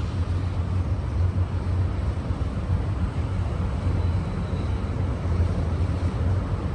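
Steady low rumble of a freight train's diesel locomotives.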